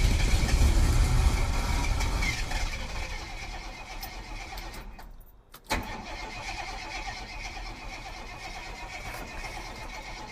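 Starter motor cranking the Jeep J10's AMC 401 V8 over without it catching, after 29 years of sitting. It is loudest for the first few seconds, cuts out briefly about five seconds in, then runs on steadily.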